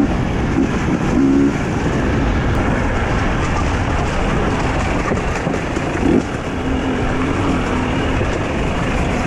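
Two-stroke Husqvarna TE 250i enduro motorcycle riding off-road, its engine note rising and falling with the throttle under a steady rush of rough rumble and rattle.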